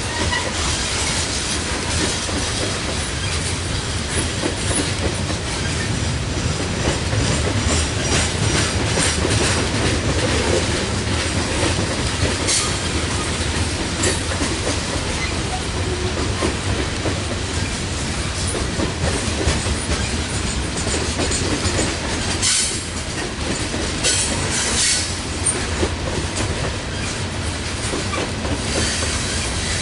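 Loaded coal hopper cars rolling past on a curve: a steady rumble of steel wheels with clickety-clack over rail joints, and a few brief high screeches from wheel flanges.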